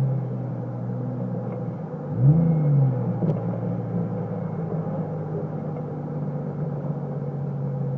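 Chevrolet TrailBlazer's Magnaflow exhaust running with a low, steady drone. About two seconds in, a single quick rev blip rises in pitch and falls back.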